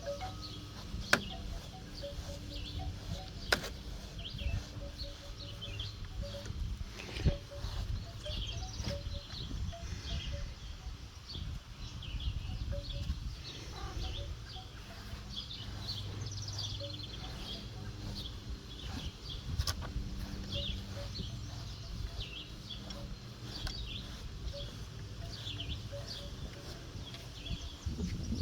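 Small birds chirping and twittering, many short calls throughout, over a steady low background rumble, with a few sharp clicks.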